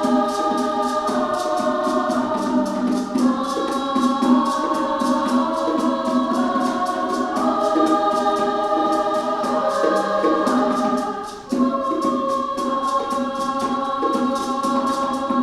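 Women's choir singing sustained chords that shift every second or two, over hand percussion keeping a steady pulse of about four light strokes a second. The sound dips briefly about eleven seconds in, then the choir comes back in.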